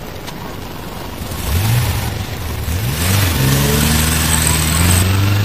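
Car engine revved in two quick blips, then held steady at higher revs for the last two seconds.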